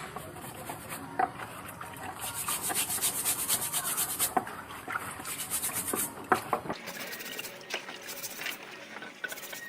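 Hand rubbing on the rusty steel of old scissors, with a quick, even run of scraping strokes for about two seconds and a few sharp metal clicks.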